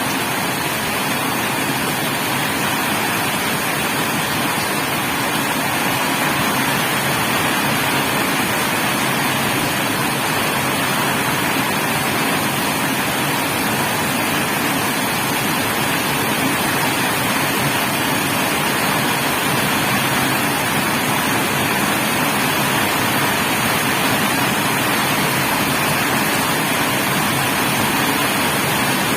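Heavy rain falling steadily, a loud, even hiss with no change.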